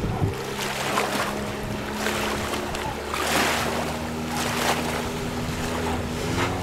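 Outboard motor running steadily on an inflatable PVC motorboat, with a rushing noise of wind and water that swells and fades several times.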